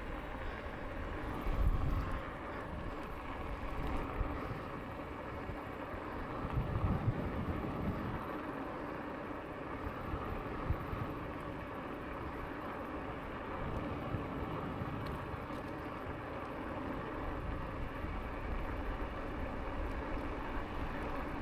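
Lankeleisi X2000 e-bike riding along a cycle path: steady tyre and riding noise with wind buffeting the microphone. Two stronger low gusts come about 1.5 s and 7 s in.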